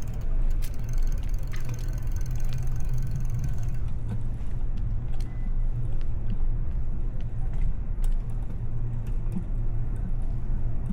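Steady low rumble of riding a bicycle on a city street, with scattered clicks and rattles from the bike.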